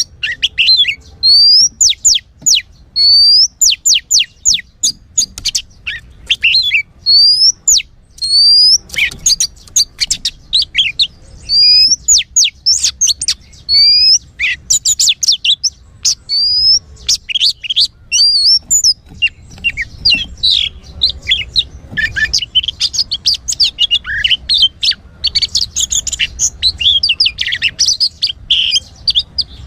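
Oriental magpie-robin (kacer) song: loud, repeated upward-sweeping whistles, turning in the second half into a denser run of rapid, varied chattering notes.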